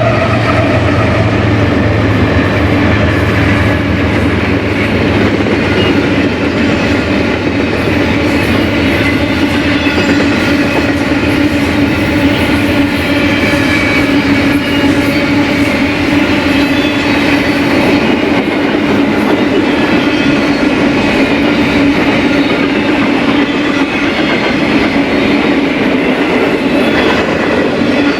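BNSF freight train rolling past at speed: a steady, loud rumble of steel wheels on rail with continuous wheel clatter and a steady ringing tone. A low locomotive engine hum fades over the first few seconds as the locomotives move on.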